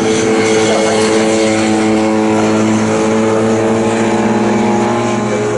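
An engine drones steadily, holding almost the same pitch throughout, over a noisy background.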